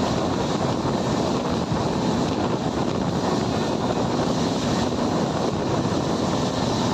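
Steady rush of wind buffeting the microphone over the continuous running rumble of a moving passenger train, heard from the open coach door.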